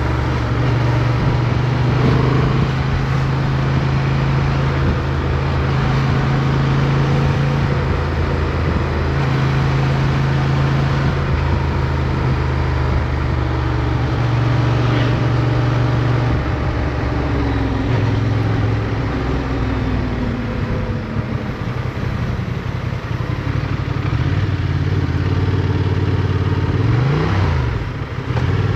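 Motorcycle engine running while riding, its pitch shifting with throttle and speed. A slow fall in engine pitch comes around the middle, and a quick dip and rise near the end.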